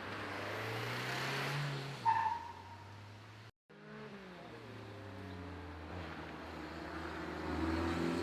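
Peugeot hill-climb cars accelerating hard: one engine revs up, a sharp crack sounds about two seconds in, and the car fades away. After a brief cut, a second car's engine note falls and then climbs again as it grows louder, pulling up the hill toward the listener.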